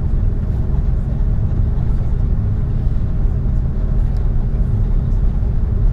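Steady low cabin noise inside an Airbus A330 taxiing on the ground: the jet engines at low taxi power and the airliner rolling, with a constant hum underneath and no change in level.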